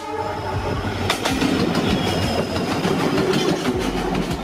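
Freight train passing close by: a steady heavy rumble of the locomotive and wagons rolling past, with wheels clacking over the rail joints.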